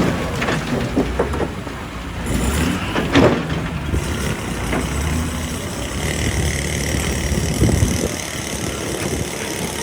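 A heavy machine's engine running steadily, with several sharp knocks and scrapes of rock, the loudest about three seconds in.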